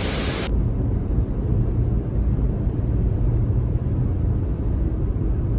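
Rushing waterfall noise that cuts off abruptly about half a second in, giving way to the steady low rumble of a car driving, heard from inside the cabin.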